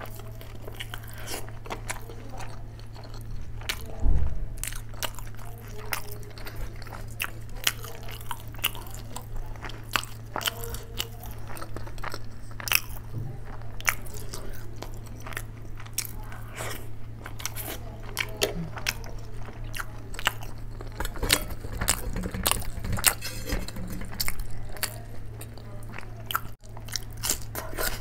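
Close-miked eating sounds: chewing, biting and wet mouth smacks and clicks as rice and curry are eaten by hand, with some crunchy bites, over a steady low hum. A single louder thump comes about four seconds in.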